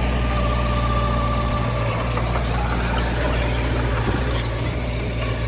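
Heavy earthmoving machine's diesel engine running steadily, a low drone with a faint whine over it.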